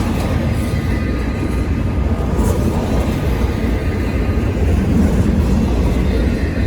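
Freight train cars rolling past close by: a steady rumble of steel wheels on the rails, with no breaks, as the long train goes by.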